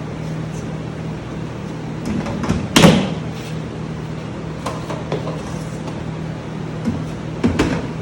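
Lids being fitted onto nutrient buckets: a few separate knocks and snaps, the loudest about three seconds in and a couple more near the end.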